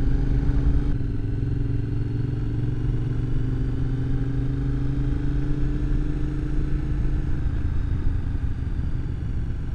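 Motorcycle engine running steadily while riding. Its note sinks slightly as it eases off about seven seconds in.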